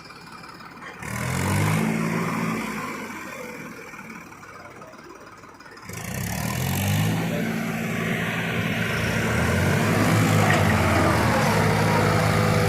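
Tractor diesel engine revving hard twice under heavy load, as when straining to pull a loaded trolley out of mud. The first rise comes about a second in and sinks away over a few seconds; the second comes at about six seconds and is held at high revs.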